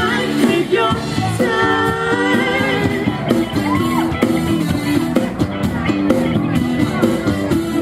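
Live rock band playing, with a singer holding a wavering note about a second and a half in, over guitar and drum hits.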